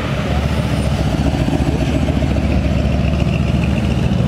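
Ferrari V8 engine running steadily at low speed with a loud, even, low note.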